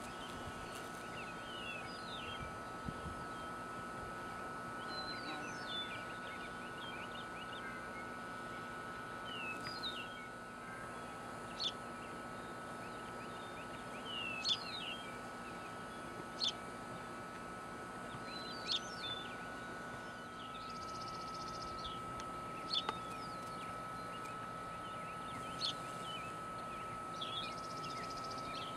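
Wild birds chirping, short quick calls scattered throughout and loudest in the second half, over steady outdoor background noise and a faint steady high hum.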